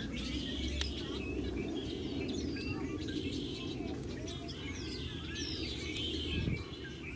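Many small birds chirping and calling at once: a busy chorus of short chirps and quick whistled glides, over a steady low rumble.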